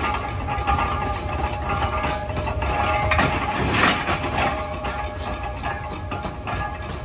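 Metalworking machinery running in a gear-forging shop: a steady mechanical rumble with rapid clinks and clicks, and a louder rushing burst about halfway through.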